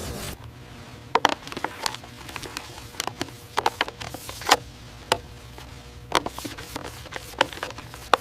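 Irregular sharp clicks and knocks, about a dozen scattered across the stretch, over a faint steady low hum.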